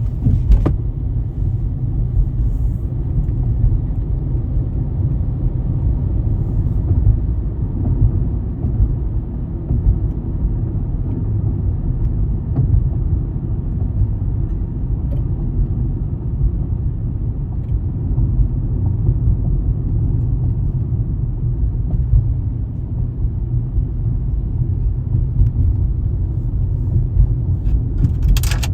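Steady low rumble of a car driving: road and engine noise. There is a sharp click about half a second in and another near the end.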